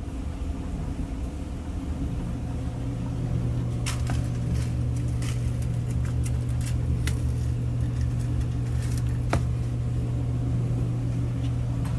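Samsung electric dryer running: a steady low motor-and-drum hum, with a few scattered clicks and taps in the middle.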